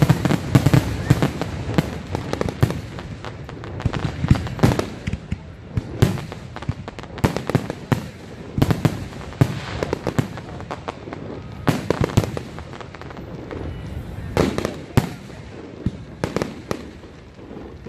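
Fireworks display: aerial shells bursting in a string of sharp bangs and crackling, coming thick and fast at first, then spaced out to single or paired reports about a second apart.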